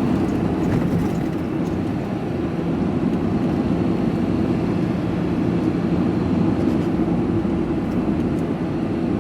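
Lorry engine and road noise as a steady drone inside the cab while driving.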